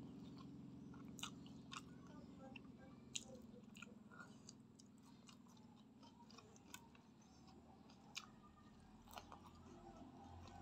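Close-miked, quiet chewing of a mouthful of fried instant noodles, with short wet mouth clicks scattered throughout. A steady low hum runs underneath.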